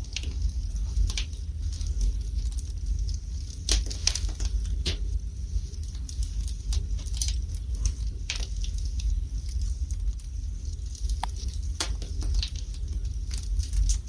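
Wood fire burning in a fireplace: the logs crackle and pop at irregular moments over a low, steady rumble.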